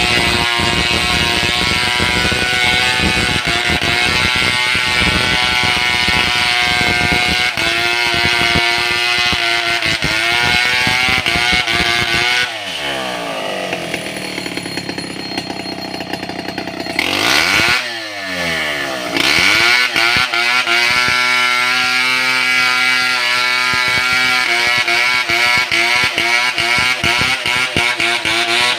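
Stihl 070 two-stroke chainsaw running at high revs, dropping back to a low idle about twelve seconds in, with a brief blip of throttle, then revving back up and running flat out again.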